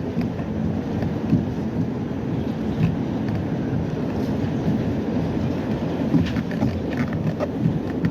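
R68 subway car running on the rails on the Q line: a steady low rumble with scattered, irregular knocks and clicks.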